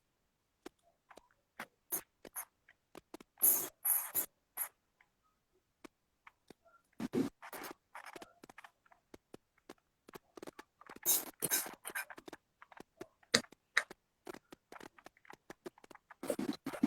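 Irregular small clicks, taps and scratchy rustles, with a few louder rustling bursts.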